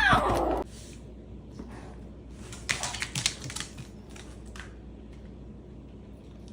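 A domestic cat's meow, cut off about half a second in. Then a low background with a short run of light tapping clicks about three seconds in, and a few fainter ones later.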